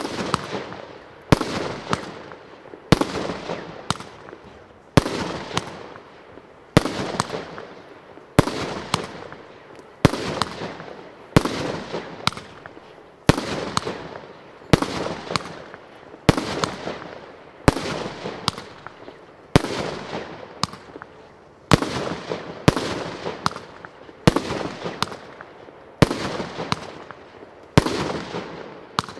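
A multi-shot firework cake (the 'Hurricane') firing shot after shot, a sharp bang about every one and a half to two seconds, with smaller pops in between. Each bang trails off before the next.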